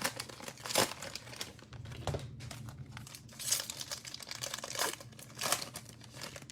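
Cellophane wrapper of a trading-card cello pack crinkling and tearing as it is opened, in irregular crackles with several louder bursts.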